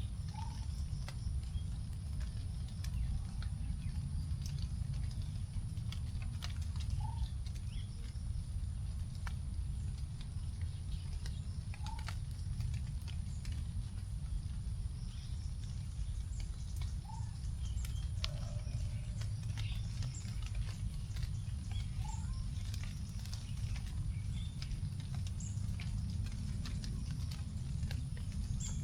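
Leftover raindrops dripping onto forest leaves in scattered irregular ticks, with birds chirping; a short rising call repeats every five seconds or so, over a steady high tone and a low rumble underneath.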